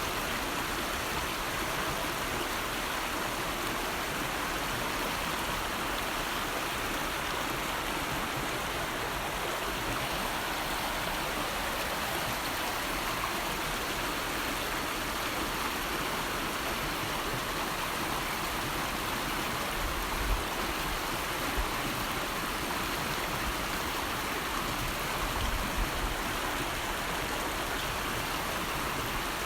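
River water flowing in a steady, continuous rush, with a few brief low thumps about two-thirds of the way through.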